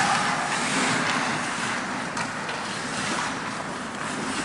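Steady rushing outdoor noise with no clear voices or tones, the kind of sound wind on a microphone makes.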